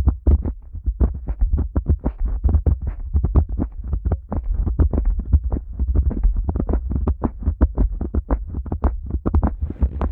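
Fingers rubbing the ears of a Neumann KU100 dummy-head microphone close up: a fast, rhythmic run of muffled rubbing strokes, about six a second, with a heavy low rumble.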